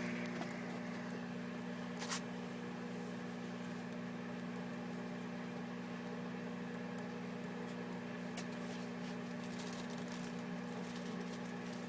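Microwave oven running with a steady hum, and a single short click about two seconds in.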